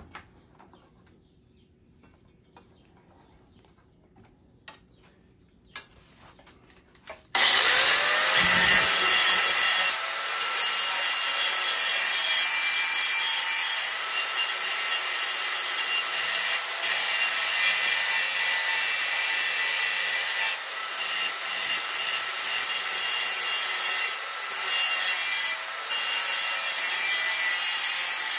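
A few faint clicks, then about seven seconds in a grinder starts up and grinds steadily against a steel lawn mower blade, sharpening its cutting edge, with a few short dips in the noise.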